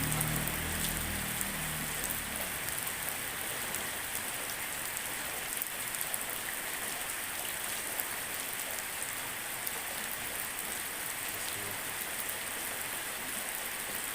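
Drizzling rain falling steadily, a even hiss with many small drops ticking close by. A low rumble fades out over the first couple of seconds.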